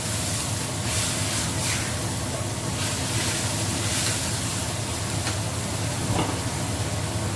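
Blended shallot, garlic and chili paste sizzling steadily as it fries in a stainless steel wok, with palm sugar and tamarind just stirred in; a metal spoon moves through it a few times.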